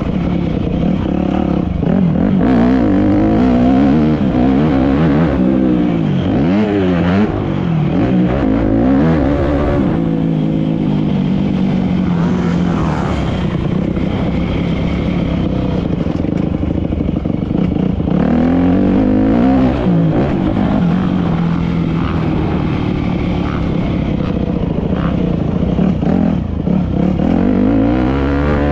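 Motocross dirt bike engines revving, the pitch climbing and falling again and again as the throttle is opened and shut.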